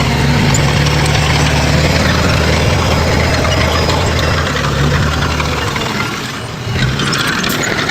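Diesel engine of heavy construction machinery running with a steady low drone and clatter. The sound dips briefly about six seconds in, then picks up again.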